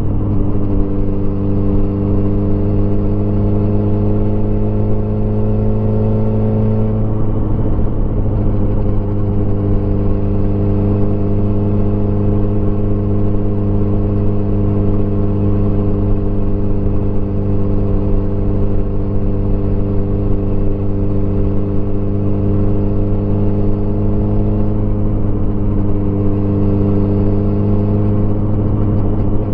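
Motorcycle engine running at cruising speed, heard from the rider's position; the engine note drops slightly about seven seconds in and rises a little again near the end.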